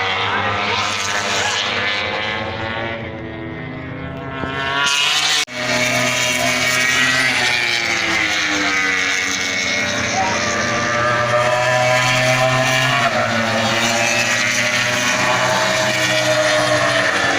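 MotoGP racing motorcycles at full race speed, their engine notes rising and falling as they pass and change gear. There is a sudden short break about five seconds in.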